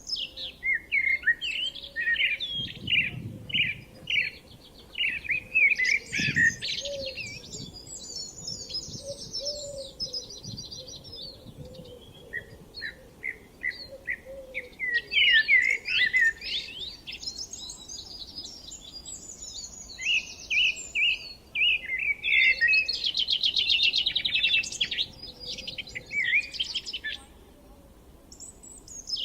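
Several small songbirds singing at once, a busy spring chorus of quick chirps, sweeping notes and fast rattling trills that overlap throughout.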